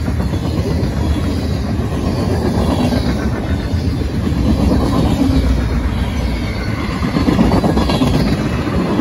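Mixed freight train of hoppers, tank cars and boxcars passing at speed close by: a steady, loud rumble and rattle of the cars' steel wheels on the rails.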